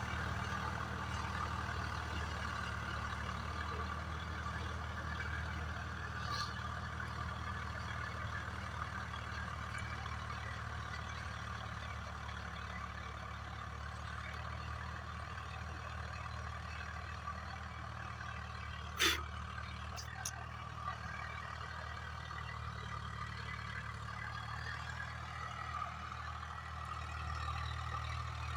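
Swaraj 744 FE tractor's diesel engine running steadily with a Shaktimaan rotavator, a constant low drone with a steady higher whine above it. One sharp click about two-thirds of the way through.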